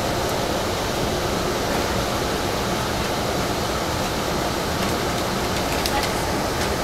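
Steady running noise of a passenger train at speed, heard from inside the coach, with a few faint clicks about five to six seconds in.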